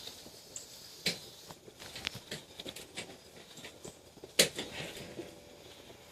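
Kittens moving about at play, making scattered light taps and scuffles, with a sharper knock about a second in and a louder one about four and a half seconds in.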